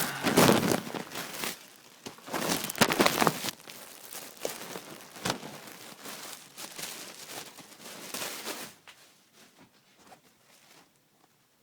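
Shirt packaging and fabric rustling and crinkling as a new T-shirt is unwrapped and handled, loudest in two bursts in the first few seconds, then softer handling that dies away about nine seconds in.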